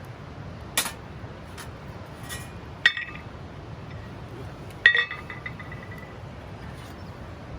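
Metal camp cookware clinking: a light knock, then two ringing metallic clinks about two seconds apart, the second the loudest.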